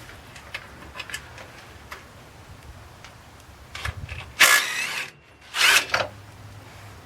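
Socket-wrench work on an alternator bolt with a 14 mm socket: scattered light ratchet and tool clicks, then two loud bursts of under a second each, a little past halfway, from a power tool spinning the bolt.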